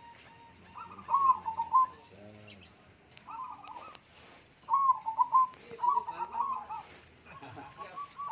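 Zebra doves (perkutut) cooing: about five warbling coo phrases, one after another, some running into each other.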